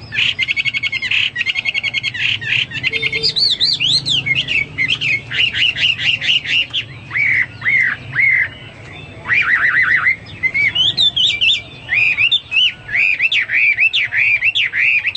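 Chinese hwamei (melodious laughingthrush) singing a loud, varied song of rapid trills and rising and falling whistled notes, phrase after phrase with only brief breaks.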